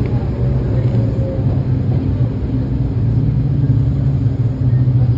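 Steady low rumble of a Nagano Electric Railway electric train running, heard from inside the driver's cab.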